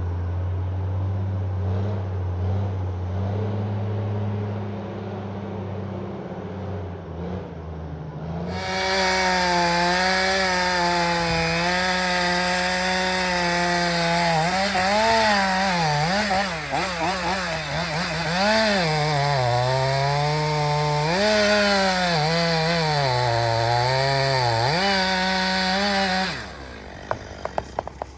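A low engine idling steadily. About eight seconds in, a chainsaw takes over at full throttle, its pitch dipping and recovering repeatedly as it bogs down in the wood it is cutting. It stops near the end, followed by a few sharp cracks.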